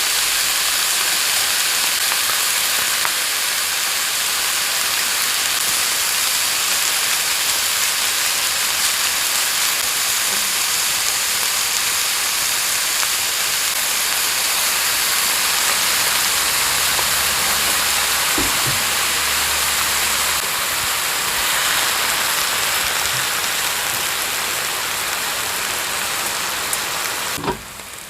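Lettuce sizzling steadily as it stir-fries in a hot pan. The sizzle drops away sharply near the end.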